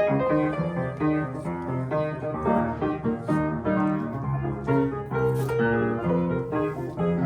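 Solo piano playing a flowing melody over chords, with notes changing every fraction of a second.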